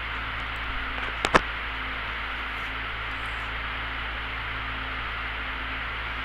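Steady rushing wind and engine noise of a small aircraft in level flight, heard from the cockpit, with two sharp clicks about a second in.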